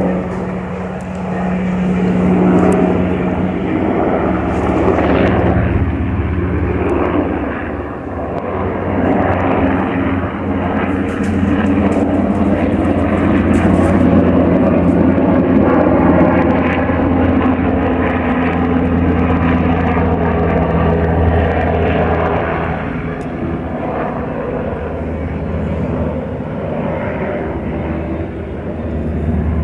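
Sikorsky S-92A helicopter passing overhead: a steady, loud drone of its rotors and twin turboshaft engines with a strong low hum. It swells to its loudest around the middle and eases a little toward the end.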